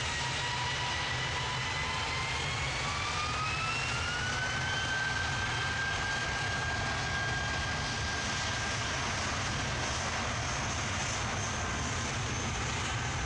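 Jet airliner's engines spooling up for takeoff: a whine that rises in pitch over a couple of seconds and then holds steady at takeoff power, over a steady low rumble.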